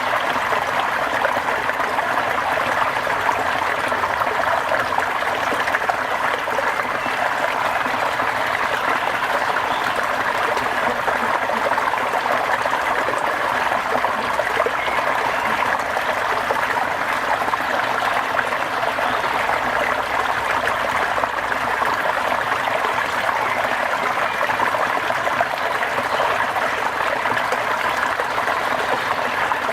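Steady rushing water, an even hiss without breaks or distinct drops.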